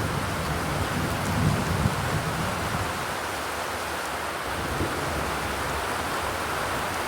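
Steady rain, an even hiss with a low rumble underneath that eases off in the middle.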